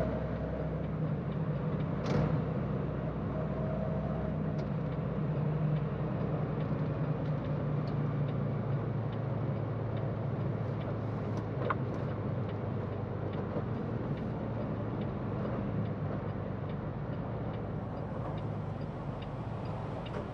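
Tractor-trailer's diesel engine and road noise heard from inside the cab while driving: a steady low hum.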